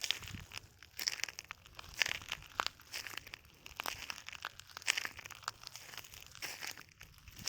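Footsteps in flip-flops crunching over a bed of broken shells, each step a cluster of crackly crunches, roughly one step a second.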